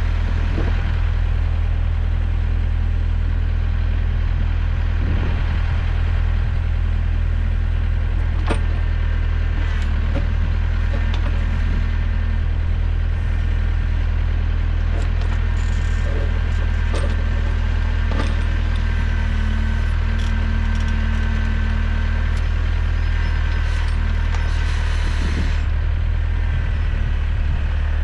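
Trident 404 small tractor's engine running at a steady speed, driving the PTO hydraulic pump while the backhoe attachment is worked, with a few scattered clicks and knocks.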